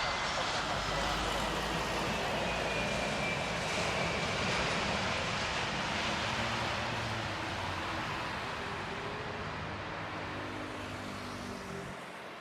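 Jet engines of a Super Air Jet airliner passing by, a loud, steady rushing noise with a faint high whine, slowly fading over the last few seconds.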